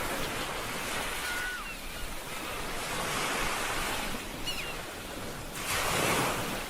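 Ocean waves washing onto a shore in rushing surges, the loudest surge near the end. A few faint, short, high chirps sound over the surf.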